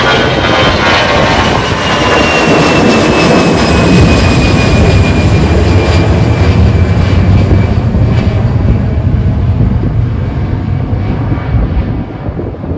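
Jet airliner taking off, its engines loud at takeoff thrust with a high whine that slowly falls in pitch, the sound thinning and fading near the end as the plane climbs away.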